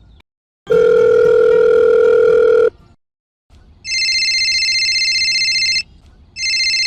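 Telephone sound effect: a steady, buzzy tone for about two seconds, then, after a short silence, an electronic phone ringing with a fast warble, in two rings separated by a brief pause.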